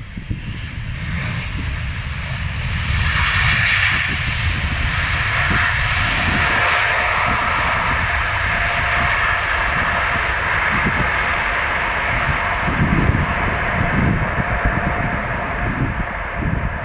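Airbus A380's four jet engines running loud as the airliner comes in to land. The noise builds over the first few seconds, then holds as a steady rushing roar with a whine in it.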